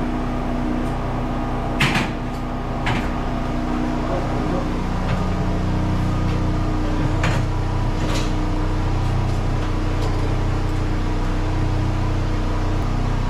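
A steady mechanical hum, like a motor running, with a few sharp knocks: the loudest about two seconds in, then others about three, seven and eight seconds in.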